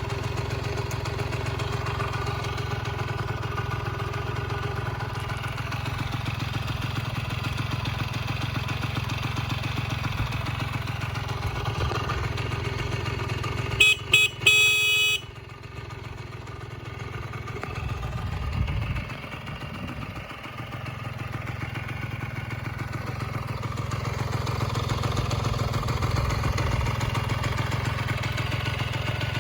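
Honda Racoon AD02 moped's small engine idling steadily. About fourteen seconds in, a few short, loud horn beeps; the engine then runs quieter for a while before settling back to a steady idle.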